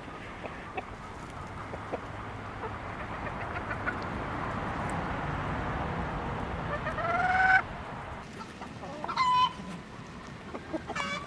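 Chickens calling and clucking, with one loud rising squawk about seven seconds in and shorter calls near nine and eleven seconds, over a steady background hiss.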